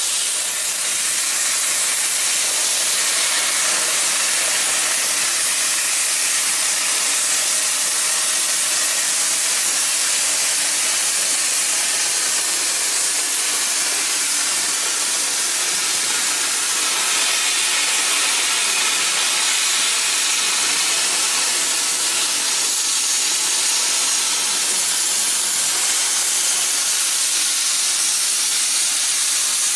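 Plasma arc of a CNC plasma cutting table (Hypertherm Powermax 105 source) cutting steel plate: a loud, steady hiss that runs without a break.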